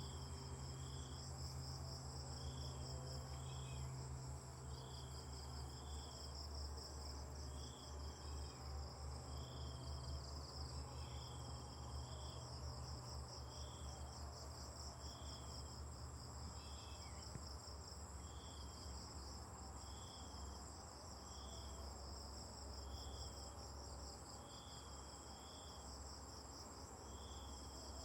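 Crickets chirring continuously in a fast, even pulse, with a short high note repeating about once a second throughout.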